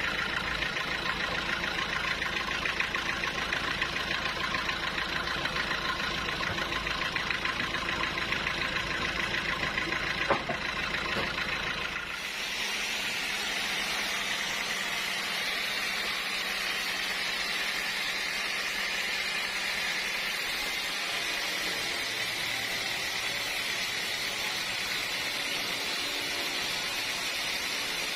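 Sawmill machinery running steadily with an engine-like hum. About twelve seconds in the sound changes abruptly to a steady, higher hiss, and the low hum drops away.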